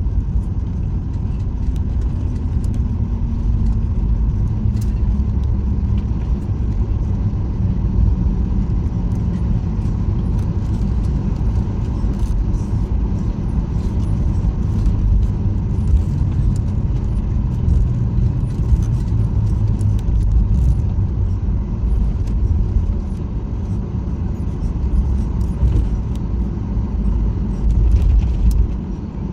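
Cabin noise inside a Boeing 737-800 just after landing: a steady low rumble from the CFM56-7B engines and the airframe rolling on the ground, with light rattles of cabin fittings. A low engine tone slides down in the first few seconds, and the rumble eases slightly near the end.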